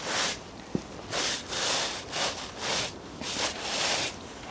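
A boot brush scrubbing the soles of hiking boots in quick back-and-forth strokes, about two a second, the bristles rasping against the boots.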